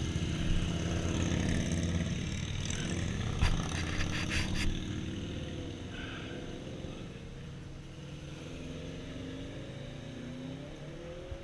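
A vehicle engine runs with a wavering pitch and slowly fades. A few sharp clicks come about three and a half to four and a half seconds in.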